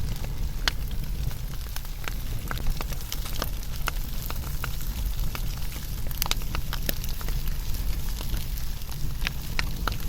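Wood fire burning: irregular sharp crackles and pops, several a second, over a steady low rumble of flame.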